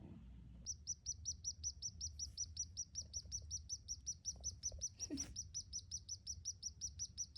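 A baby swallow chirping steadily, with short high chirps repeated about five times a second, starting about a second in.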